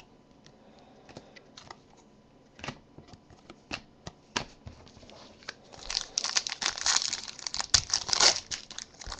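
A trading card pack's wrapper being torn open and crinkled, preceded by scattered light clicks and taps of cards being handled; the crinkling starts about six seconds in and turns dense.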